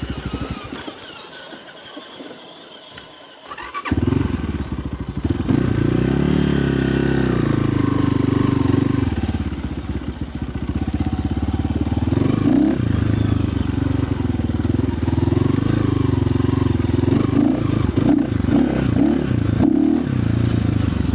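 Dirt bike engine running: low and quieter at first, then loud from about four seconds in, its pitch rising and falling with repeated throttle blips as it is ridden.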